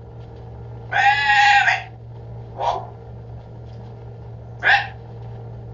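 A nuri (lory) parrot making voice-like calls in imitation of Quran recitation: one long drawn-out call about a second in, then two short calls.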